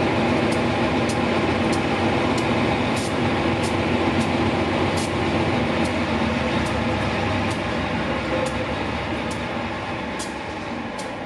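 Passenger train running along the track, hauled by a GE diesel-electric locomotive. Its wheels click regularly over rail joints, and the rumble fades away near the end as the train moves off.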